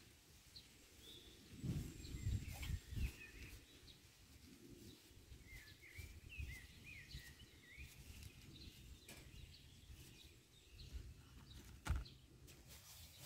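Small birds chirping repeatedly in short rising and falling calls, with a few dull low thumps about two seconds in and again near the end.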